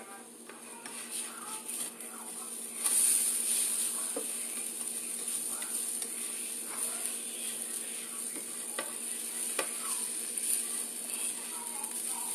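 Shredded potatoes frying in a nonstick skillet, a steady sizzle that gets louder about three seconds in, with a spatula scraping and clicking in the pan now and then.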